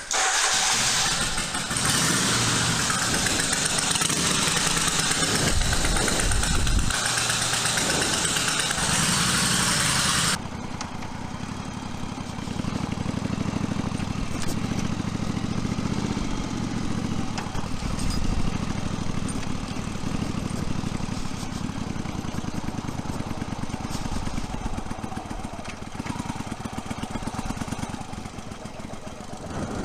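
1982 Yamaha Virago 750's V-twin engine starting and running. A loud hissing noise over it for the first ten seconds cuts off suddenly, leaving the engine idling steadily.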